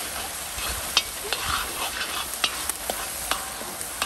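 Chopped onion, garlic and pepper sizzling in hot oil in a large metal wok, frying toward brown, while a metal spoon stirs and scrapes through them. A steady hiss runs throughout, broken by several sharp clicks.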